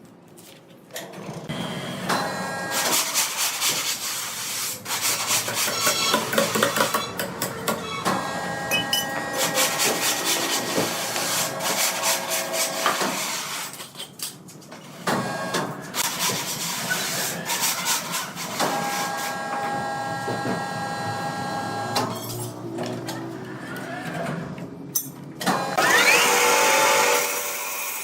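Woodworking machinery running, with steady tones and noise that change abruptly several times as one machine sound gives way to another.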